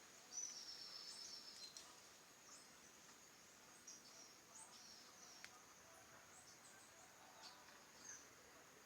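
Birds calling faintly in woodland: many short, high chirps scattered throughout, with a louder high trill lasting about a second and a half near the start. A steady high insect drone runs underneath.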